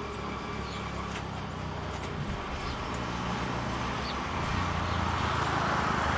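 A motor vehicle's engine running steadily, growing louder towards the end, with a few faint bird chirps.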